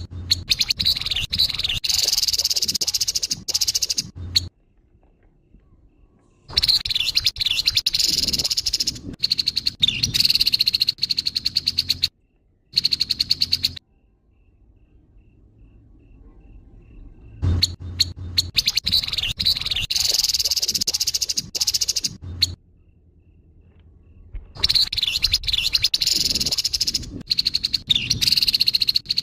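Grey-headed babbler giving its harsh, rapid chattering call in bursts of several seconds, separated by short pauses.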